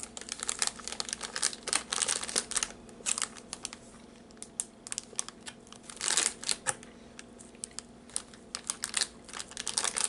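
Plastic snack wrapper crinkling and crackling in irregular clusters as it is handled and a piece of the packaged sweet bread inside is torn off.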